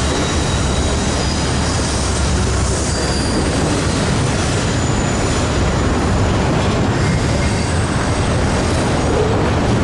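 Freight train rolling past at close range: a steady, loud rumble of wheels and cars, with faint high wheel squeal coming and going.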